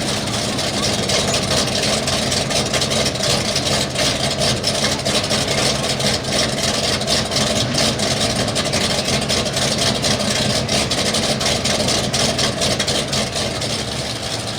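Pulling truck's engine idling steadily, with no revving.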